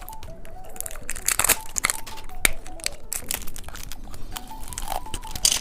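Plastic candy wrapper crinkling and crackling as it is handled and opened, in quick irregular bursts.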